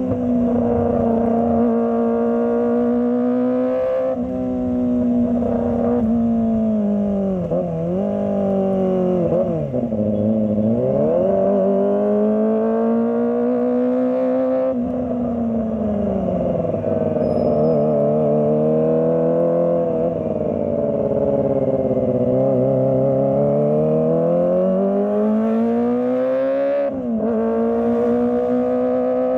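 Kawasaki ZX-25R's 250 cc inline-four engine running continuously at high revs. Its pitch drops several times as the throttle is rolled off, then climbs back up.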